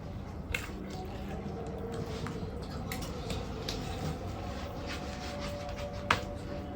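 Chewing and wet mouth sounds of a person eating air-fried chicken, with a few short sharp clicks, the loudest about six seconds in.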